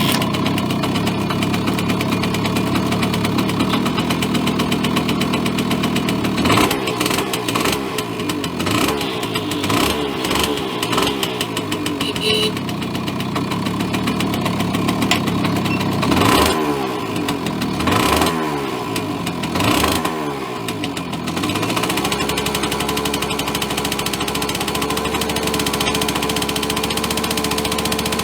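Suzuki K50's 49cc single-cylinder two-stroke engine running. Its throttle is blipped several times in the middle, each rev rising and falling, and it then settles to a steady idle.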